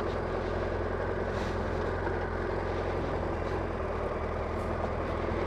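Motorcycle engine running steadily, an even, unbroken drone with noise over it.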